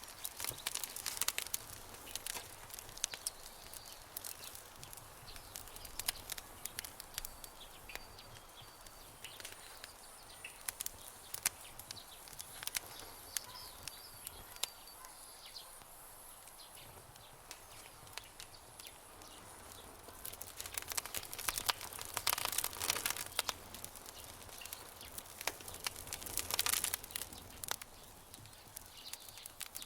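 Campfire crackling: a steady run of sharp pops and snaps that comes in thicker bursts about two-thirds of the way in and again near the end. Faint high chirping runs under it through the first half.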